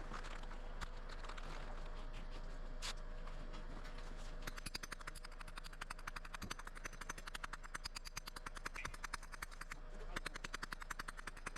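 Rapid, even mechanical clicking, about eight clicks a second, starting about four and a half seconds in and running on, over a faint steady hum.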